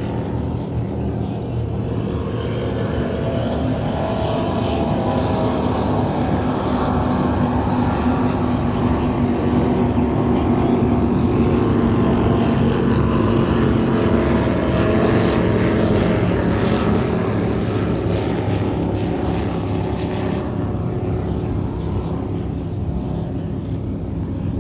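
Engines of classic offshore racing powerboats running hard at speed, swelling louder as the boats pass and fading again near the end, with a rush of water and wind under the engine note.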